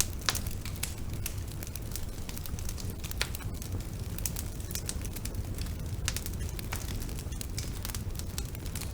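Bonfire burning with a steady low rumble of flames and irregular sharp crackles and pops from the burning wood.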